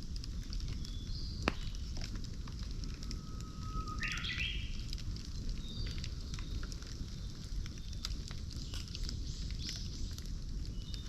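Campfire burning with a steady low rush and scattered crackles, one sharp pop about a second and a half in. Birds call now and then over it, with a clear call about four seconds in.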